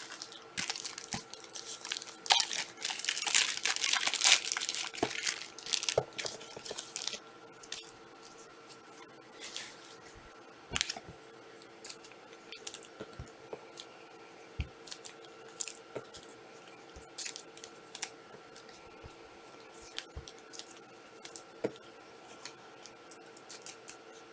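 Empty trading-card pack wrappers and packaging being crumpled and cleared off a table, a dense crinkling for the first several seconds, then scattered light taps and clicks.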